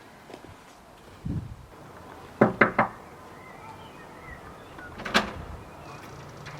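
A dull thump, then three quick sharp knocks, and a single sharp clack a few seconds later.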